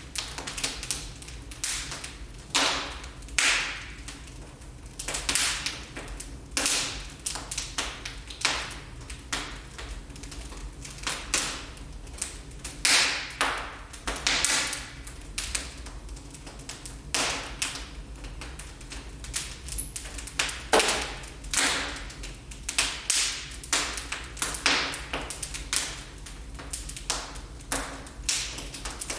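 Wood fire in a fireplace crackling, with irregular sharp pops and short hissing flares over a steady low rumble.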